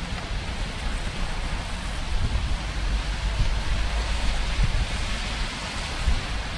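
Steady rain falling, an even hiss, with a low, uneven rumble underneath.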